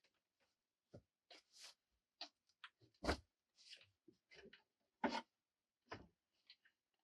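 Scattered short rustles and knocks of movement in a small enclosed room, with two louder thumps about three and five seconds in.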